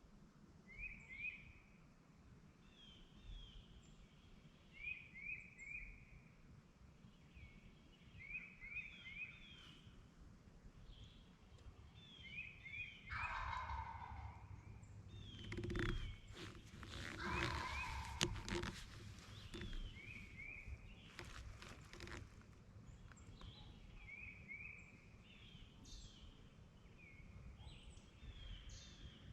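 A wild turkey tom gobbles once, about a third of the way in, over a small songbird that repeats a short three-note call every couple of seconds. In the middle there is close rustling and handling noise with a few sharp clicks.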